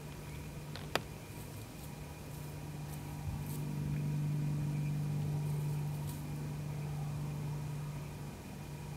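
Car engine running with a steady low hum that swells louder through the middle and eases toward the end. A single sharp camera-shutter click comes about a second in.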